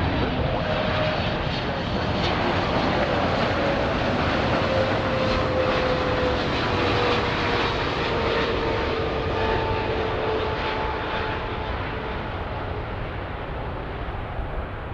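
Jet airliner's engines at takeoff power passing by: a loud, steady rush of engine noise with a whine that slowly falls in pitch as the aircraft goes past, easing off slightly near the end.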